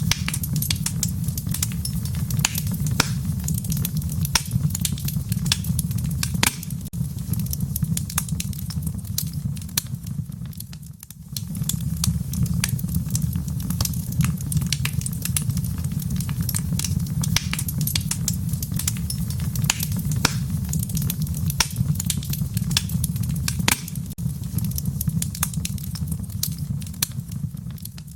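Wood fire crackling and popping, with sharp snaps scattered over a steady low rumble of the flames. The sound dips briefly about eleven seconds in, then carries on as before.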